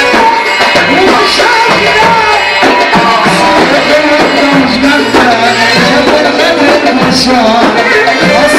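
Loud Egyptian sha'bi wedding band music: a wavering melody line over a steady hand-drum beat.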